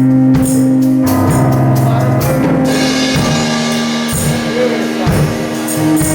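Church praise band playing: a bass line of held notes that change every second or so, with drum kit and cymbal hits.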